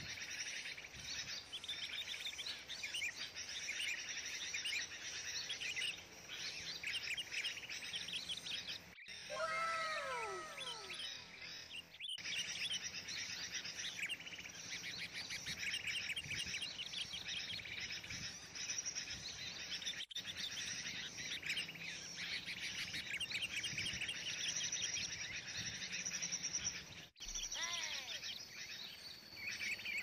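Small birds chirping and twittering in a dense, high-pitched chorus. A run of falling whistled notes comes about ten seconds in and again near the end.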